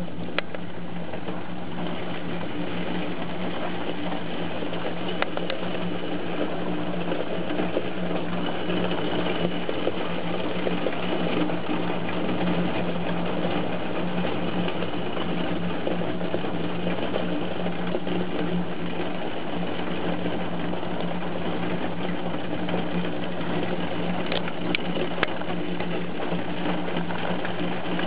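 Heavy rain drumming steadily, with a low steady hum underneath.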